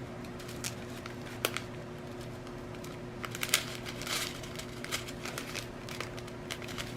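Small plastic bags of rhinestones being handled: scattered light clicks and crinkling, densest about three to four and a half seconds in, over a faint steady hum.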